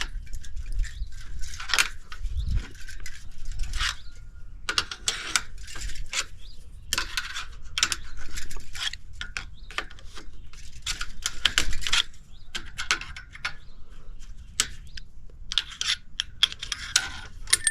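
Metal parts of an old air conditioner condenser being worked loose with hand tools: irregular metallic clicks, knocks and short scrapes, with no steady rhythm.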